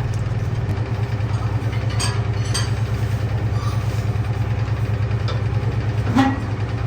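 Heavy machinery running with a steady low hum, with a few short metallic clinks; the loudest clink comes near the end.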